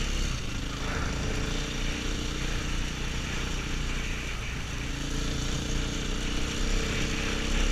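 KTM 500 EXC's single-cylinder four-stroke enduro engine running steadily under way, heard from the rider's helmet.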